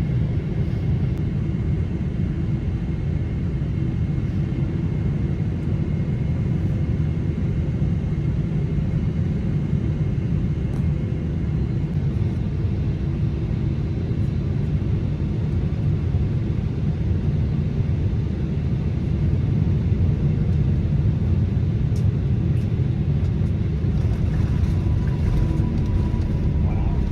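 Steady low rumble inside a Boeing 777-300ER cabin during the landing, from engine and airflow noise.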